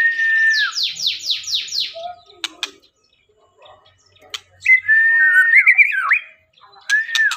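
White-rumped shama singing. It gives a clear held whistle, then a quick run of about six falling sweeps. After a pause with a few clicks comes another held whistle that breaks into warbling notes, and a short whistle near the end.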